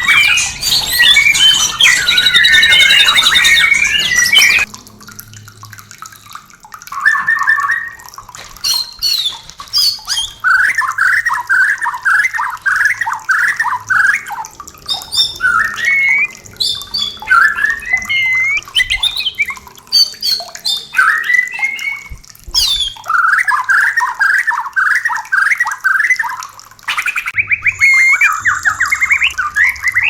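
White-rumped shama (murai batu) courtship calls and song. A dense burst of song first, then phrases of short rising notes repeated again and again, ending in a fast run of notes.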